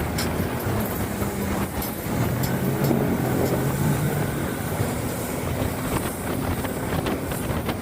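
Duck boat's outboard motor running under way, its pitch shifting a little, over rushing water and wind noise.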